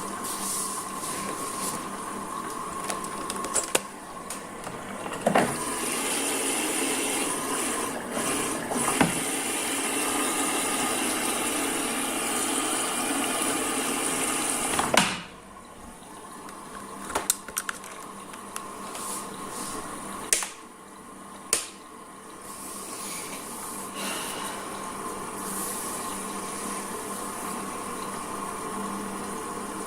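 Washing machine in its wash phase: water sloshing as the drum turns over a steady motor hum, with a few sharp clunks. About halfway through the sound drops off suddenly, then the hum and sloshing build back up.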